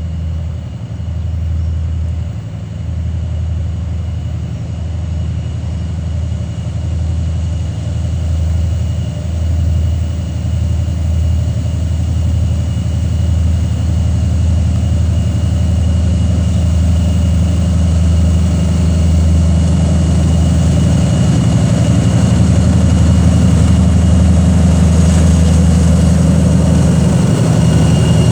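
2TE10UT diesel locomotive's 10D100 two-stroke opposed-piston diesel engines working under load hauling a freight train uphill: a deep steady throb with a high turbocharger whistle above it, growing gradually louder.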